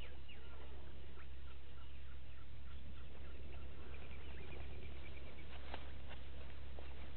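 Birds calling in short repeated chirps, several notes a second, over a steady low hum, with a couple of brief sharp clicks about two thirds of the way through.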